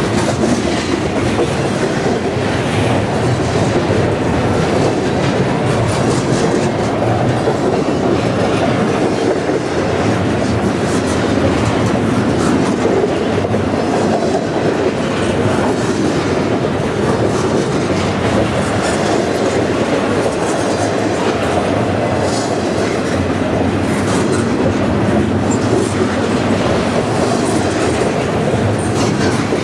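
Double-stack intermodal container well cars of a CN freight train rolling past, a loud, steady rumble of steel wheels on rail.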